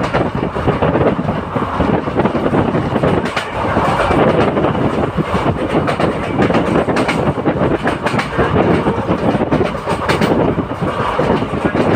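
Passenger train running at speed, heard from on board: a steady loud rumble of wheels on rail and rushing air, with a few faint clicks.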